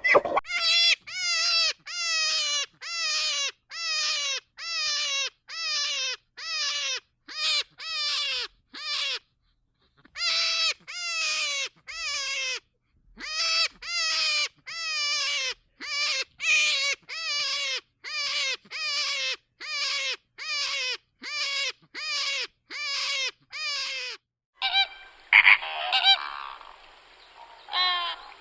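An animal's repeated short calls, about two a second, each falling in pitch, with a couple of brief pauses. Near the end a different recording cuts in, with background hiss and a few louder calls.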